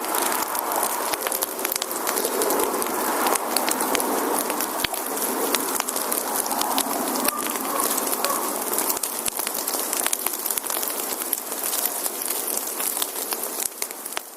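Wood fire burning: a steady rushing hiss full of sharp pops and crackles from the burning logs, fading out near the end.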